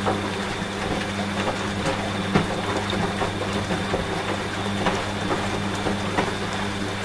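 Washing machine running with a steady electric motor hum and a faint high whine, over rain falling as scattered irregular ticks.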